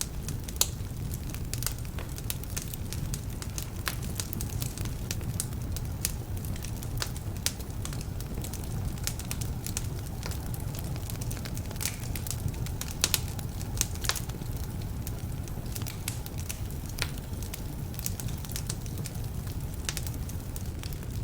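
Wood fire burning in a fireplace: a steady low rumble of flames with frequent irregular sharp crackles and pops from logs that are a bit damp.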